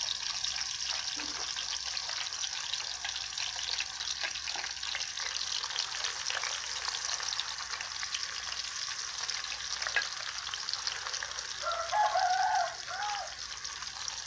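Wedges of salted jackfruit sizzling in hot oil in a frying pan, a steady crackling hiss. Near the end a short pitched call rises and falls twice over the frying.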